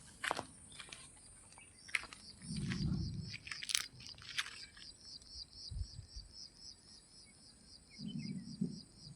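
Sharp crunching clicks in the first few seconds, like something being bitten, with a couple of low muffled thumps. From about two seconds in, a fast, steady high chirping runs on, about four pulses a second.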